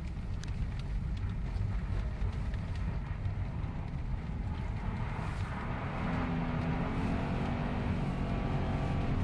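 Subaru Impreza STI's turbocharged flat-four engine and tyre rumble on snow, heard from inside the cabin while driving. A steady engine tone comes up about six seconds in and holds at constant revs.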